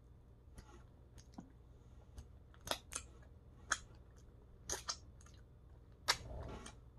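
A person chewing food with the mouth closed, faint, with about eight sharp wet mouth clicks and smacks spread unevenly through, and a short soft breath near the end.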